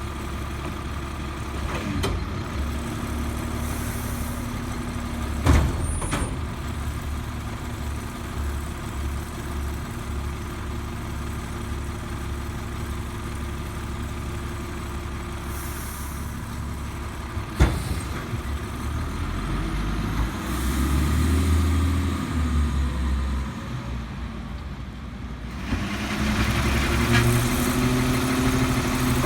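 Heil Multi Pack rear-loader garbage truck running at idle, with sharp bangs about 2, 5 and 17 seconds in. Twice in the second half, for a few seconds each, the engine runs louder and higher.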